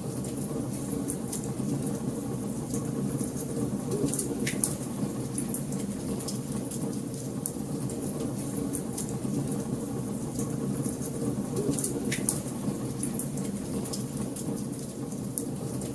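Wood fire burning in a fireplace: a steady low rumble of flames with frequent small crackles and pops, two sharper pops about four and twelve seconds in.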